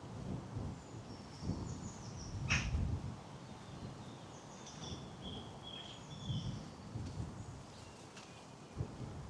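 Small songbirds singing short, high, downward-stepping phrases several times, over the soft low thuds of a walker's footsteps on a path.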